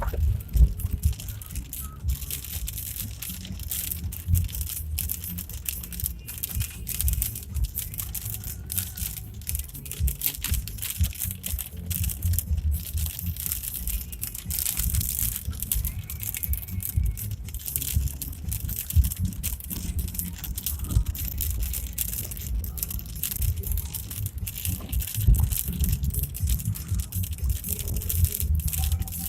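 Vehicle jolting along a rough road, with a steady low rumble and constant rattling and knocking.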